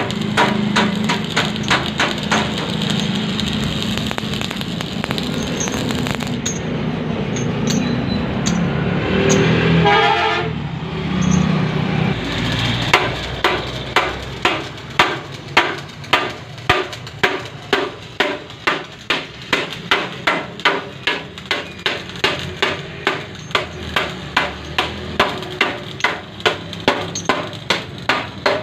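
Irregular knocking and clatter, then a hammer striking steadily, about two blows a second, through the second half.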